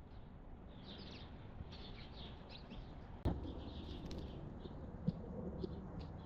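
Small songbirds chirping repeatedly in short high notes, with a single sharp knock about three seconds in and a fainter click near five seconds, over a low steady rumble.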